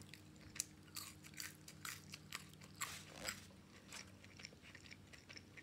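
Faint, close-up mouth sounds of someone chewing French fries: soft, irregular crunchy clicks and smacks.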